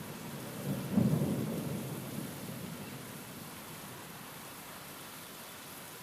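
A clap of thunder about a second in, rumbling low and dying away over the next two seconds, over steady rain.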